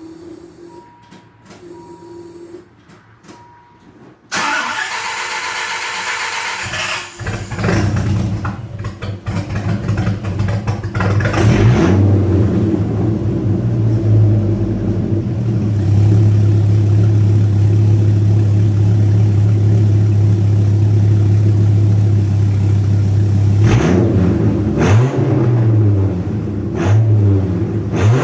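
Dodge Viper V10 breathing through a new Thrush-muffled 2 3/4-inch exhaust. After a few faint beeps the starter cranks, the engine catches and settles into a steady loud idle. It is revved several times near the end.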